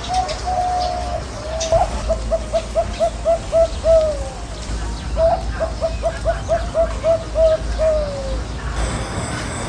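A bird calling in runs of short, evenly repeated notes, about four a second. Each run ends in a longer falling note, and there are three runs.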